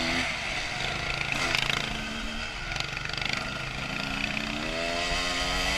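2001 Honda CR250 two-stroke dirt bike engine on the trail, running low and light for the first half, then revving up with rising pitch about four seconds in. A couple of brief knocks are heard along the way.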